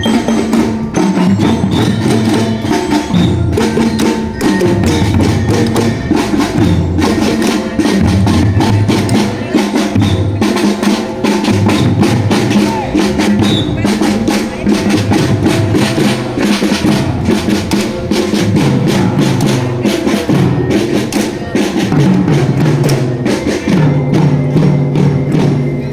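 Drum band playing: dense, rapid drum strokes over a low, stepping bass line, continuous throughout.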